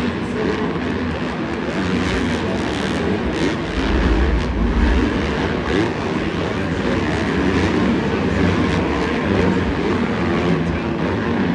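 Several dirt bike engines running together, their pitches rising and falling as the riders work the throttles, with a low surge of engine noise about four seconds in.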